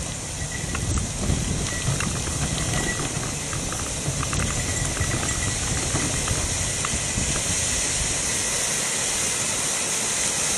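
Wind rumbling on the microphone and a steady hiss while riding a bicycle, with scattered light clicks and ticks throughout.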